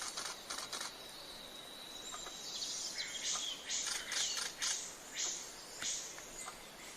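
Birds calling: a quick run of short high notes, a thin steady high whistle, then a string of loud, short, shrill calls in the second half.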